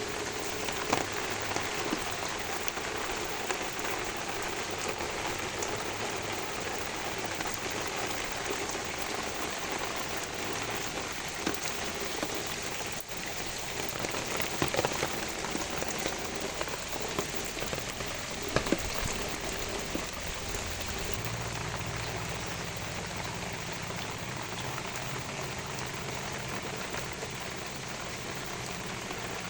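Steady rain falling on plants, with scattered louder drops landing close by.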